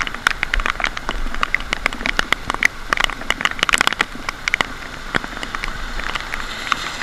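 Steady rain with irregular sharp taps of drops landing close by.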